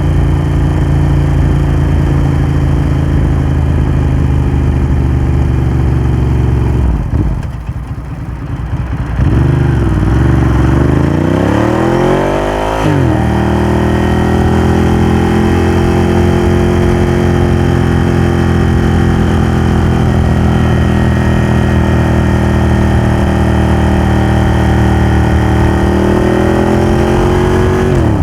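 Ducati Hypermotard 1100's air-cooled L-twin running through a Termignoni exhaust while riding. It runs steadily, goes quieter when the throttle is closed about seven seconds in, then revs rise for a few seconds and drop sharply at a gear change about thirteen seconds in. After that it holds steady engine speed.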